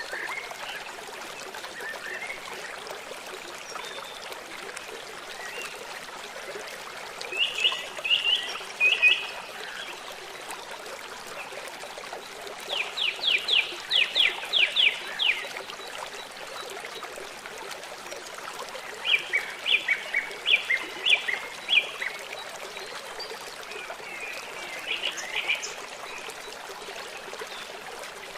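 Forest birdsong over steady running water: a songbird sings four short phrases of quick repeated notes, the longest a fast series of about ten notes about halfway through.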